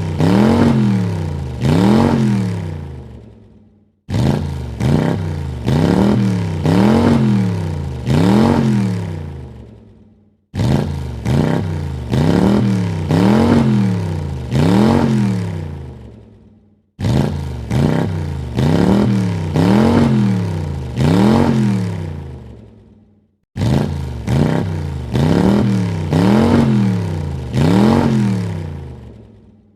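Car engine revved in a short burst of quick blips, each rising and falling in pitch, then fading away. The same burst repeats about every six and a half seconds.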